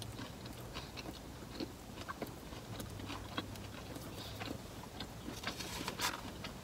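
Close-up chewing of a mouthful of Subway sandwich, with many small wet clicks and crackles. Near the end there is a short rustle of a paper napkin.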